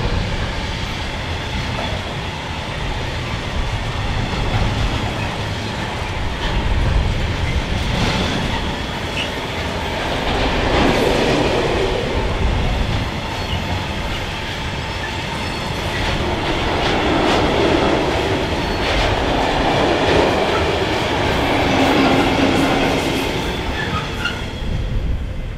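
A freight train of tank wagons rolls past close by behind an electric locomotive, a steady heavy rumble of wheels on rail with repeated knocks as the wheels run over the crossing.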